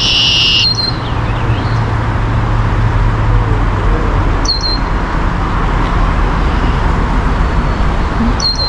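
Steady road-traffic noise with a bird calling over it: a short buzzy call right at the start, then brief high double chirps about a second in, halfway through and near the end.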